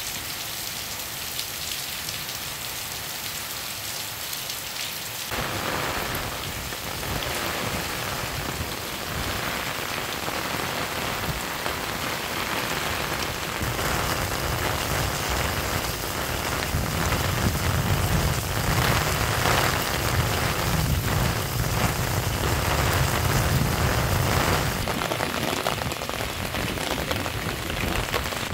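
Steady rain falling and splashing on the ground and hard surfaces, its sound changing abruptly several times. A low rumble joins in during the second half.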